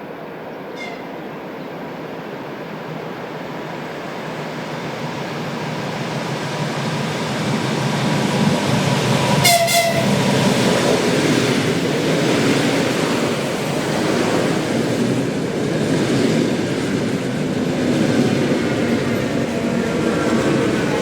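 ЭП2Д electric multiple unit approaching and running through, growing steadily louder over the first eight seconds and then staying loud with wheel and rail noise. It sounds a short horn signal about halfway through, after a faint toot near the start. Falling whines from its traction equipment come near the end.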